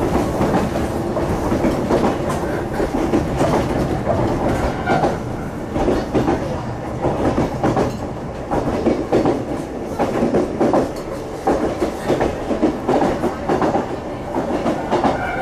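Yoro Railway local train running at speed, heard from inside the passenger car: a steady rumble of wheels and running gear with repeated clacks as the wheels pass over rail joints.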